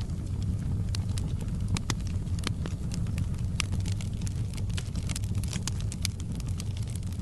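Fire burning in a fireplace: frequent, irregular sharp crackles and pops over a steady low rumble.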